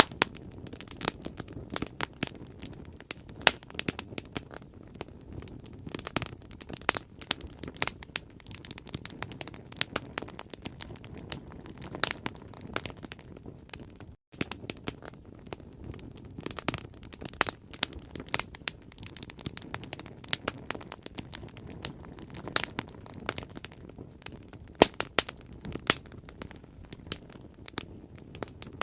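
Bonfire burning: dense, irregular crackling and popping of burning wood over a low, steady rumble of flame, with a split-second dropout about halfway.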